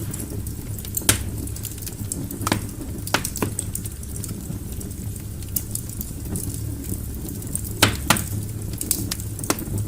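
Wood fire burning in a fireplace: irregular sharp crackles and pops from the burning logs over a steady low rumble of the flames, with louder pops about a second in and twice near eight seconds.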